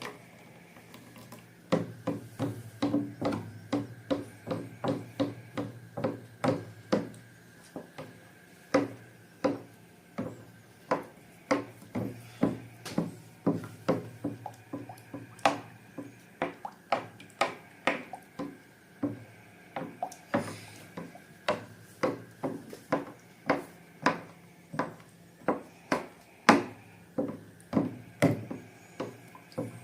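Slime being worked and pressed, giving a steady series of sharp sticky clicks and pops, about three a second, over a faint low hum.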